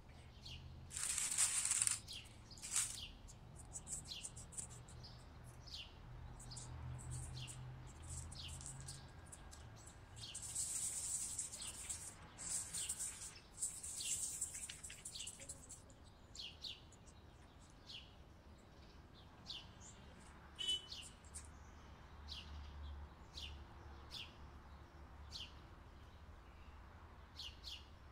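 Small birds chirp in short, scattered calls all through. They are joined by louder bursts of crinkly plastic rustling from gloved hands shaping dough, near the start and again around the middle.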